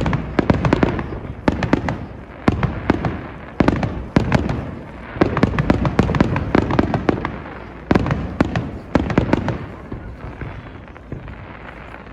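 Aerial fireworks bursting: volleys of sharp bangs and crackling pops, a new volley every second or so, with a longer lull near the end.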